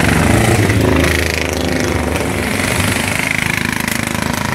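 Motorcycle engines running with a fast, rattling pulse as bikes ride past.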